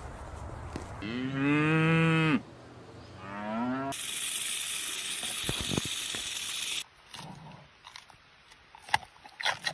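Two mooing calls. The first is long and loud, rising then falling in pitch; the second is shorter and rises. A steady hiss follows, then sharp, irregular cracking crunches of bamboo being chewed.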